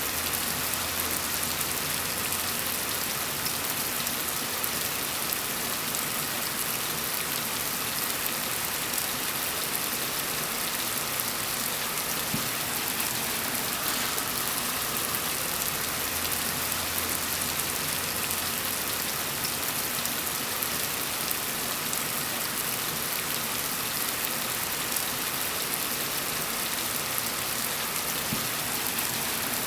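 Steady rain falling on a surface, a dense even hiss of many small drops with fine ticks of individual drops.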